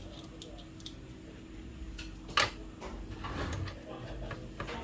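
Light clicks and one sharp knock about two and a half seconds in, from the plastic parts of a printer being handled and screwed back together, over a low steady hum.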